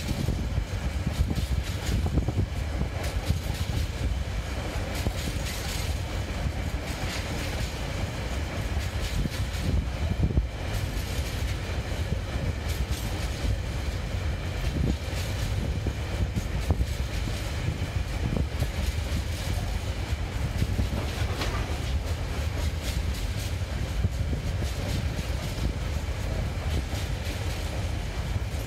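Freight train's container wagons rolling past at close range: a steady rumble of steel wheels on the rails, with scattered clacks as the wheels run over the track.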